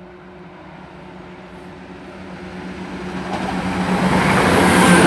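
CrossCountry Class 170 Turbostar diesel multiple unit approaching, its underfloor diesel engines giving a steady drone, with wheel and rail noise growing steadily louder as the train nears.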